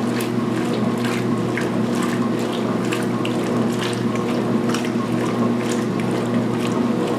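2016 Speed Queen top-load washer in high-speed agitation with towels: a steady motor hum under irregular sloshing and splashing of water churned by the agitator.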